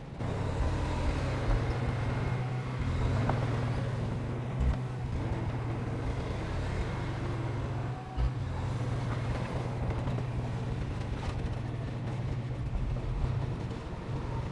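Heavy diesel engine of earthmoving machinery running steadily with a low drone, with two brief low thumps about five and eight seconds in.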